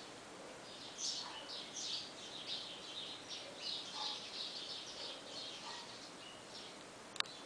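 A small bird chirping rapidly: a quick run of short, high chirps several times a second, fading near the end. A single sharp click comes just before the end.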